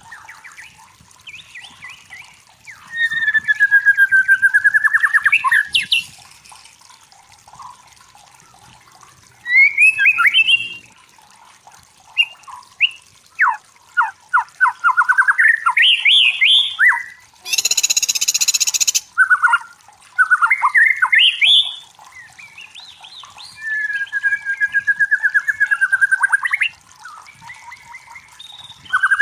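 White-rumped shama (murai batu) singing: varied whistled phrases of rising slurs and trilled runs, with short pauses between them. Just past the middle, a harsh noisy burst lasts about a second and a half.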